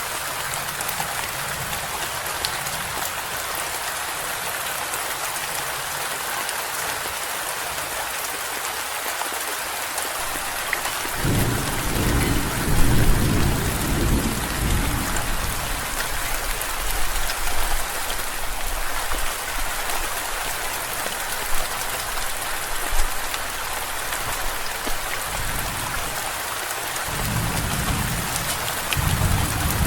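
Steady rain with low thunder rumbling in two spells: one starting about eleven seconds in and lasting several seconds, and another building near the end.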